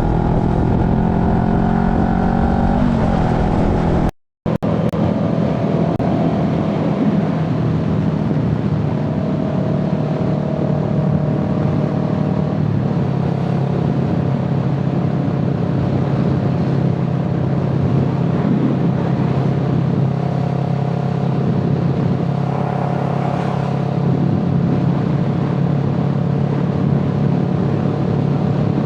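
A vehicle engine running under way, its revs shifting up and down for the first few seconds. The sound cuts out abruptly for a moment about four seconds in, then settles into a steady drone with a slight change in pitch partway through.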